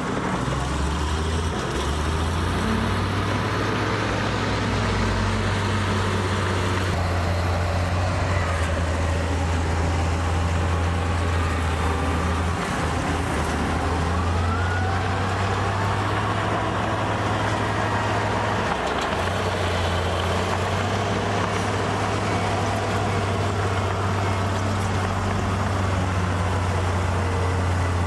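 Diesel engine of heavy earthmoving machinery running steadily under load, a constant low drone with brief dips about twelve and nineteen seconds in.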